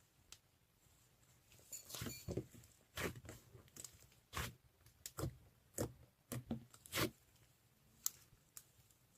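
Slime being squeezed and pressed by hand: a string of about ten short crackling squishes over five seconds, then a single sharp click near the end.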